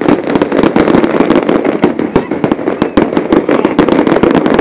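Fireworks display at full barrage: a rapid, continuous string of bangs and crackles, many a second, with no let-up.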